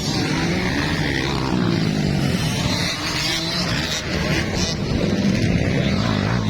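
Motocross bikes racing, their engines revving up and down as the riders work the throttle.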